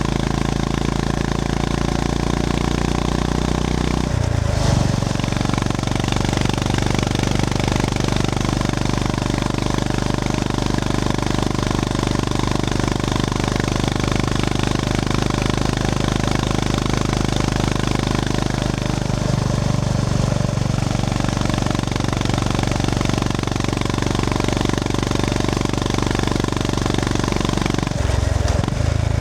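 Honda GB350S air-cooled single-cylinder engine running while the motorcycle is ridden, with a steady even pulse. The engine note changes abruptly about four seconds in and again near the end.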